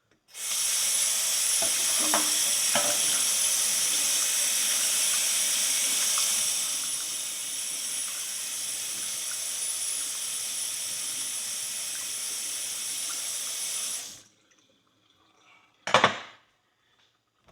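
Water running from a tap in a steady hiss as a freshly scrubbed steel horseshoe is rinsed off, easing slightly partway through and shut off abruptly about three seconds before the end. A single brief knock follows shortly after.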